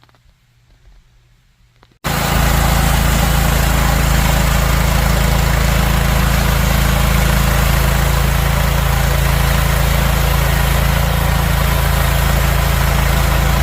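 The engine of a MechMaxx portable sawmill running loud and steady, starting abruptly about two seconds in after a quiet start.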